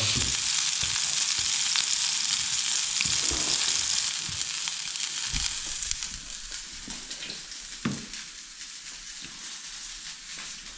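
Pork chops and steak sizzling in a frying pan over an open wood fire, a dense high hiss with a few small crackles. The sizzle is loud at first and drops noticeably about six seconds in.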